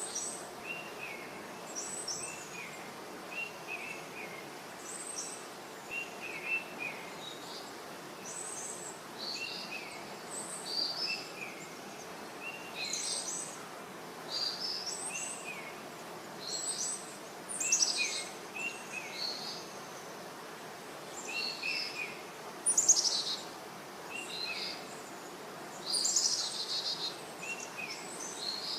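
Several birds calling over a steady background hiss: one repeats a short pair of falling notes every second or two, while others add scattered higher chirps and trills.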